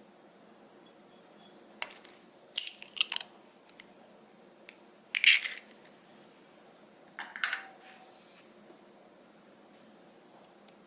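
Light clinks and taps of kitchen utensils against bowls or containers, in four short clusters, the loudest about five seconds in and the last leaving a brief ring.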